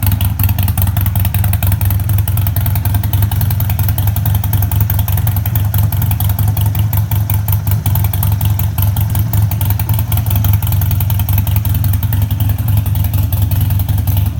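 Harley-Davidson Sportster Iron 1200's air-cooled V-twin running steadily through straight-through Shark Road slip-on mufflers, really loud, with a rapid, even exhaust pulse.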